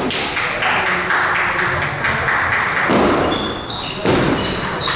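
Table tennis balls clicking and pinging off bats and tables, many quick strikes in succession, over the busy background noise of a playing hall.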